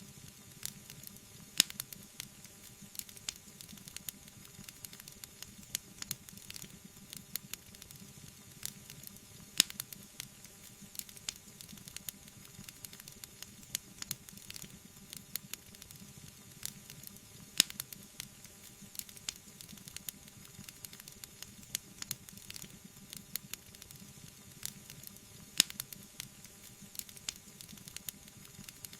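Wood fire burning in a fireplace: a steady soft hiss with frequent sharp crackles and four louder pops about eight seconds apart.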